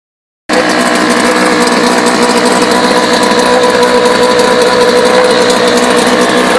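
British Seagull Silver Century two-stroke single-cylinder outboard motor running steadily at an even speed, cutting in abruptly about half a second in.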